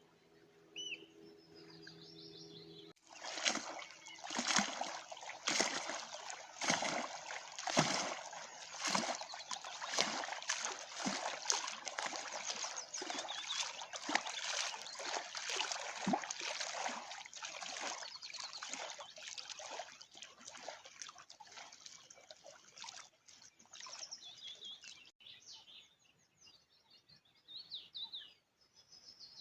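Water splashing and trickling in quick, irregular strokes, starting suddenly about three seconds in and dying away after about twenty seconds. Small birds chirp before and after.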